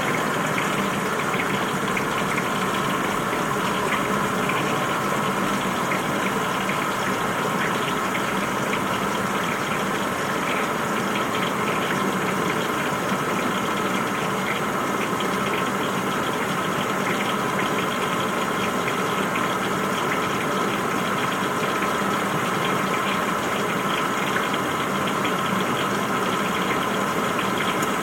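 Washing machine running steadily: a constant mechanical whir and rush of noise with a steady hum underneath.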